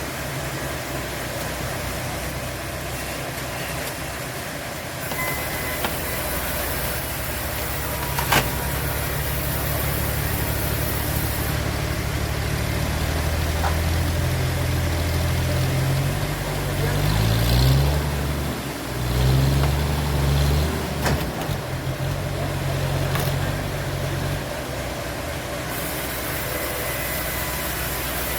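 Engine running with a low, steady hum that grows stronger about a third of the way in, rises and falls in pitch for a few seconds past the middle, then eases off. There are two sharp knocks, one just before the hum grows and one as the pitch changes end.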